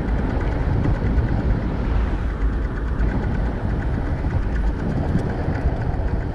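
Steady wind buffeting over the microphone while riding a bicycle along a road, mixed with road and traffic noise.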